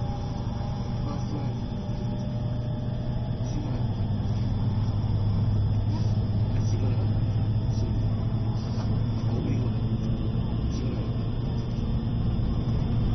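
Interior of an E653 series electric express train running on the rails, with a steady low hum and rolling noise that grows a little louder about four seconds in.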